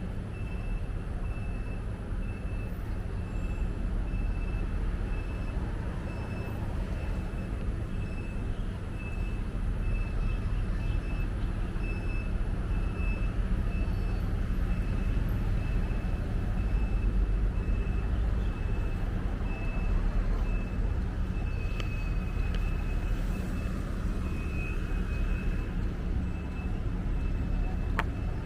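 Steady city street traffic rumble, with a faint high-pitched tone pulsing evenly throughout.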